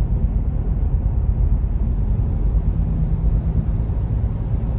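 Steady low rumble heard inside the cabin of a Volkswagen GTI on a snow-covered highway.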